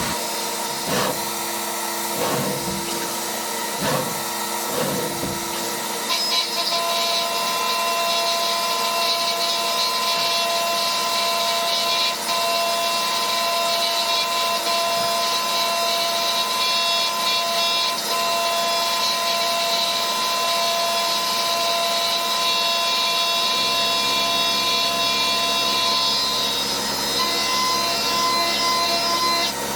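CNC mill machining a part: a steady whine made of several held tones, with a few knocks in the first seconds and a deeper hum joining about two-thirds of the way through.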